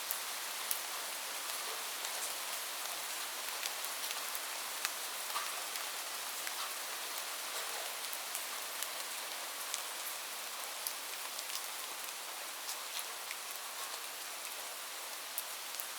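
Steady rain falling, a dense hiss with the sharper ticks of individual drops landing close by, scattered irregularly.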